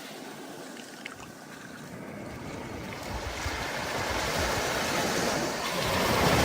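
Stormy ocean surf: a wide rushing wash of waves that swells steadily louder over the last few seconds as a wave builds to break, with gusty low rumbling beneath.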